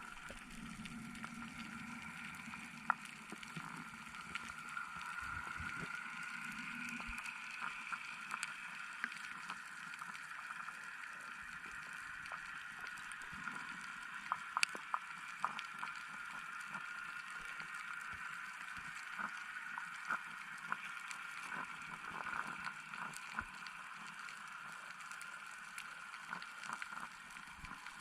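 Underwater ambience: a steady drone with many scattered sharp clicks and crackles throughout, and a lower hum that fades out about seven seconds in.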